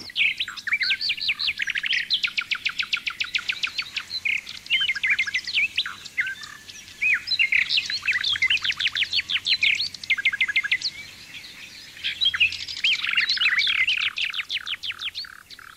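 Songbird singing: quick trills and strings of rapid chirps, in several phrases broken by short pauses.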